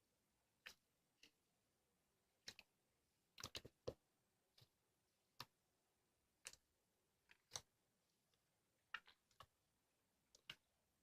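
Slime being handled, giving quiet, irregular clicks and pops, some in quick clusters of two or three.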